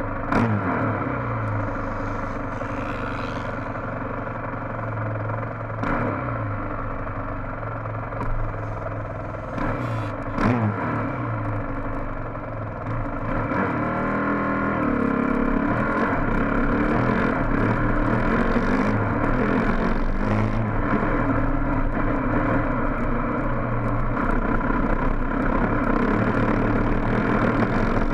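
Honda dirt bike engine running under way, its revs dropping sharply a few times in the first half as the throttle comes off, then pulling steadier and louder from about halfway.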